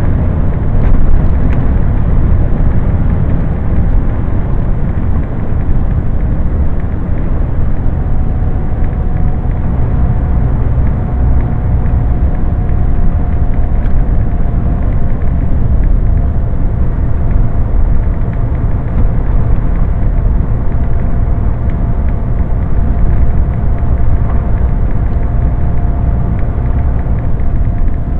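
Steady low rumble of a Scania lorry's engine and road noise, heard from inside the cab while it cruises along, with a faint steady whine above it.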